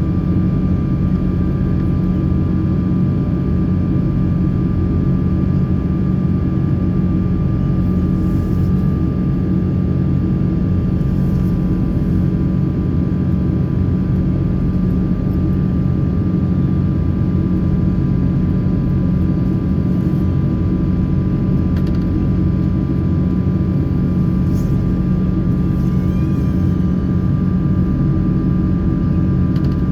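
Boeing 777-300 in flight, heard from inside the passenger cabin: a steady, loud rumble of engine and airflow noise with a faint steady whine above it.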